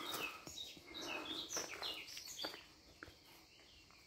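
Small birds chirping and singing: many short, high notes in quick succession, thinning out and growing quieter after about three seconds.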